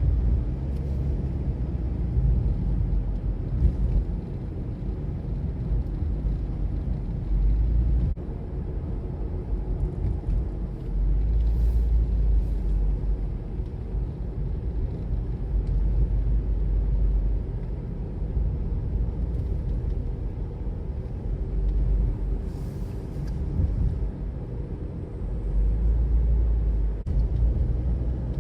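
Car driving on a road, with a steady low rumble of road and engine noise that swells and eases every few seconds.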